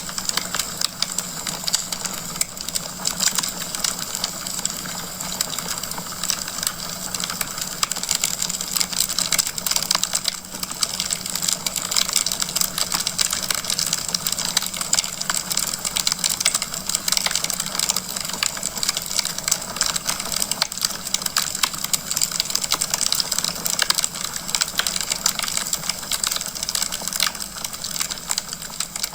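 Wood fire crackling in a fireplace: a dense, continuous stream of small crackles and pops from the burning logs, over a steady low hum.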